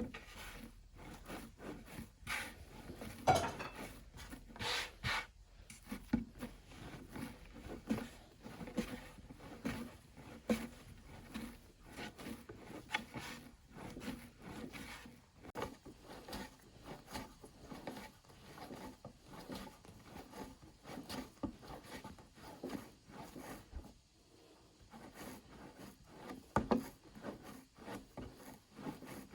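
Hand work on a wooden surface during pastry making: irregular rubbing and scraping strokes, with a few sharper knocks, the loudest about three seconds in.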